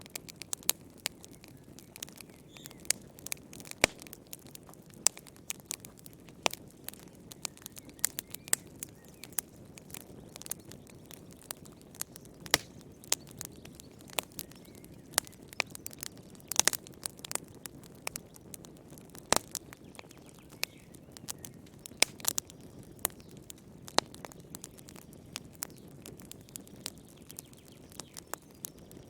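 Wood fire in a fireplace crackling: irregular sharp pops and snaps, a cluster of them about two-thirds of the way through, over a low steady rush of burning.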